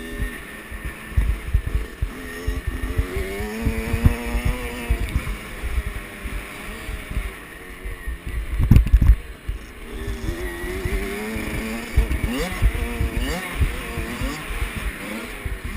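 Kawasaki KX65 65cc two-stroke dirt bike engine revving, its pitch climbing and dropping repeatedly with the throttle, under irregular low thumps that are loudest about nine seconds in.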